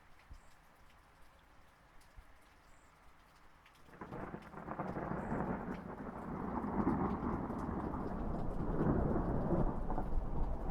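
Light rain pattering, then about four seconds in a rolling thunder rumble swells up suddenly and keeps rolling over the rain.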